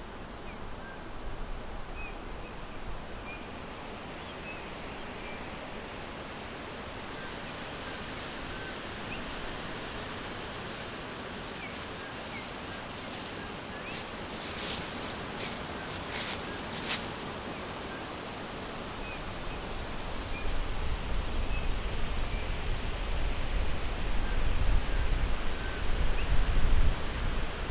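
Forest ambience: a steady hiss with small, faint bird chirps scattered throughout. A few short sharp rustles come about halfway through, and a low gusty rumble builds from about two-thirds of the way in, loudest near the end.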